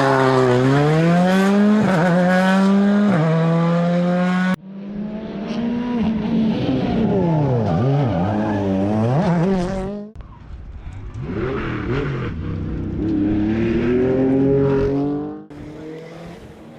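Rally car engines revving hard as the cars pass, pitch climbing and dropping through gear changes, with some tyre squeal. The sound cuts off abruptly three times as one car's pass gives way to the next.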